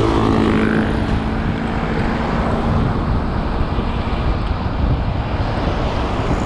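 Wind buffeting the microphone of a road bike ridden at speed in traffic, with road noise. A motor vehicle's engine hums steadily for the first three seconds, then fades.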